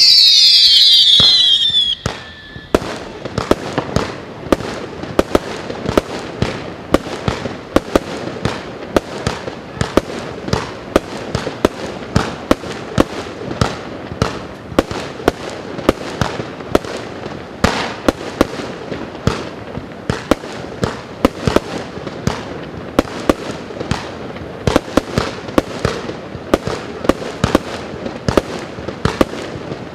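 A 200-shot, 20 mm fireworks battery cake firing shot after shot, about two or three launches a second with crackling between them. It opens with a loud whistle falling in pitch that cuts off about two seconds in.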